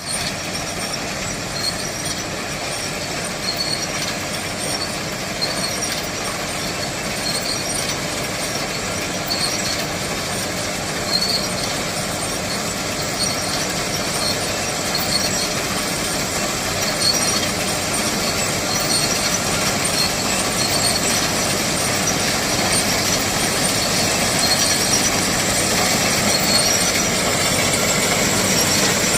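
Harvesting machine running steadily, a dense mechanical clatter with faint high ticks repeating about once a second, growing slightly louder near the end.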